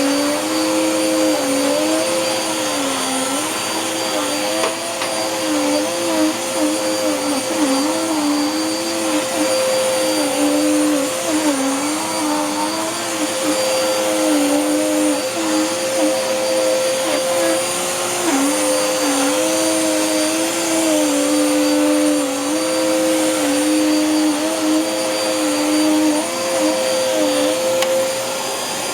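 Dirt Devil Power Max Rewind upright vacuum, fitted with a Power Max Pet base nozzle, running while pushed over a dirty rug. A steady motor whine with a second lower tone that keeps dipping and rising as the nozzle works the carpet, the wobble stopping near the end.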